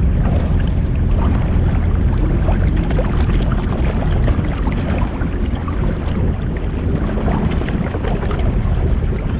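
Jet ski running steadily on the water: a strong low engine drone with a spattering hiss of water and wind above it.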